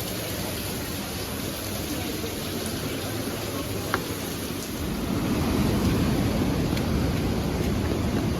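Steady rushing of rain and a rain-swollen waterfall, with a few single drips. The rush grows louder and deeper about five seconds in.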